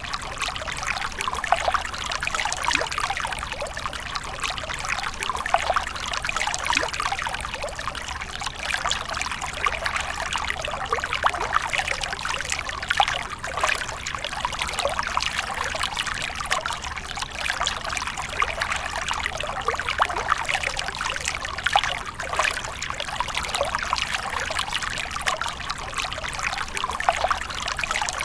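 Water splashing and trickling without a break, a steady rush dotted with many small sharp splashes.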